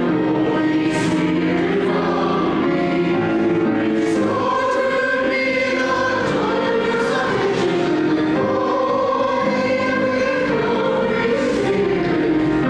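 Congregation singing a sung prayer of confession together, a hymn with many voices holding long notes.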